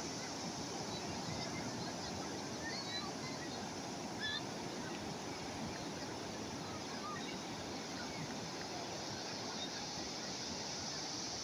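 Calm sea waves washing with a steady rush, with scattered short bird calls.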